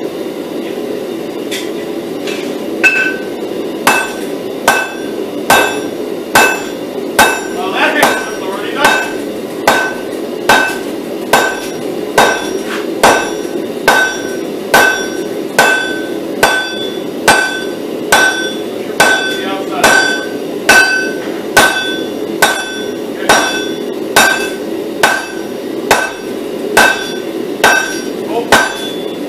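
Blacksmith's hammer striking hot steel on an anvil, forging a pattern-welded billet. After a few scattered blows it settles into a steady rhythm of about one blow a second, each blow leaving a short metallic ring, over a steady low rushing noise.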